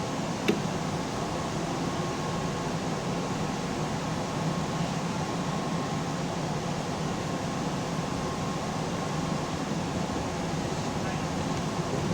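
Steady hum and hiss inside a Keihan electric commuter train, with one sharp click about half a second in.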